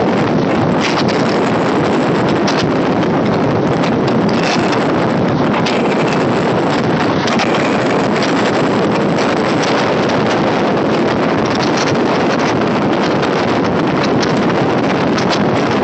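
Wind buffeting the microphone over the running noise of an electric multiple unit (EMU) local train at speed, heard from beside the moving coach: a steady, loud rush with a few faint clicks.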